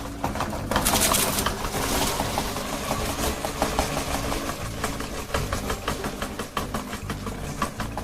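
Electric meat grinder's motor running steadily while it grinds ice cream cones, with dense small crackles of the cones breaking and a louder stretch of crunching about a second in.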